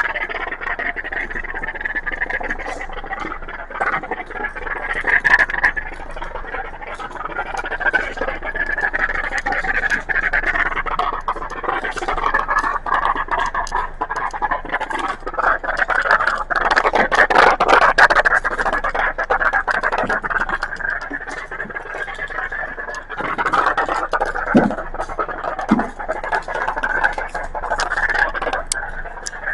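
Triple foam conditioner being applied to a car at a self-serve car wash bay: a steady, uneven hissing that swells and fades, with many small clicks.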